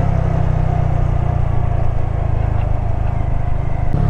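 Honda Grom's 125cc single-cylinder engine running at a steady pace while riding, with wind noise on the helmet or bike microphone.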